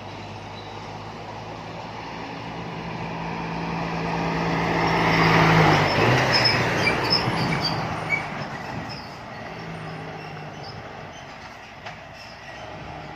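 A heavy diesel truck driving past, its engine growing louder to a peak about five and a half seconds in, dropping in pitch as it goes by, then fading into the distance.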